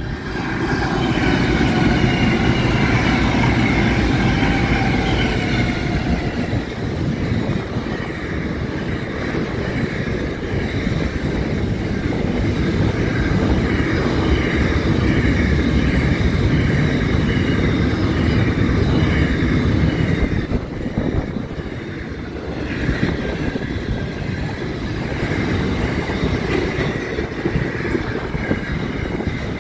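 Pacific National diesel-hauled intermodal freight train passing close by. A high whine falls slightly in pitch over the first several seconds as the locomotives go by. After that comes the steady noise of container wagon wheels on the rails.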